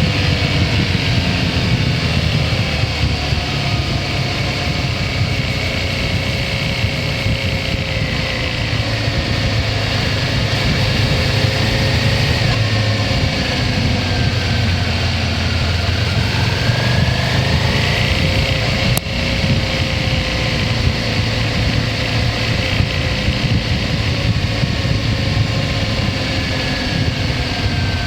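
Motorcycle engine running while riding at a steady cruise, its pitch sinking slowly and then rising again with road speed, under a dense low rumble of wind and road noise. A single sharp click about two-thirds of the way through.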